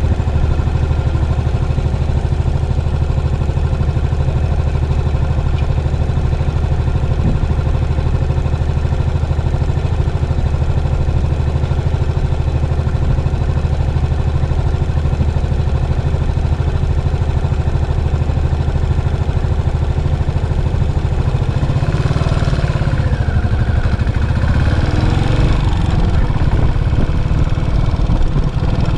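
Yamaha SR400's single-cylinder four-stroke engine running through its stock muffler, holding a steady note. About 22 seconds in the sound changes for several seconds, with rising and falling tones over the engine, then settles back to the steady note.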